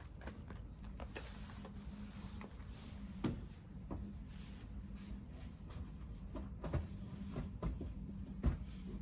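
Light knocks and clicks of tools and engine parts being handled, scattered and irregular, the loudest about three seconds in, near seven seconds and near the end, over a steady low hum.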